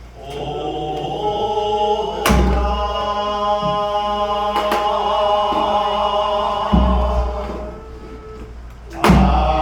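Korean sijochang singing in long held, wavering notes, with a daegeum bamboo flute. A few low thumps land about two, seven and nine seconds in.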